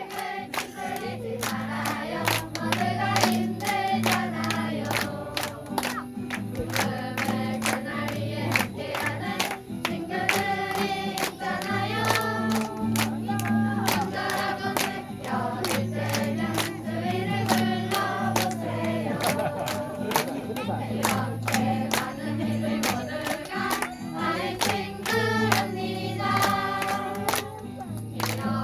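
A group of voices singing a song together in chorus over sustained low instrumental notes, with a quick, steady beat.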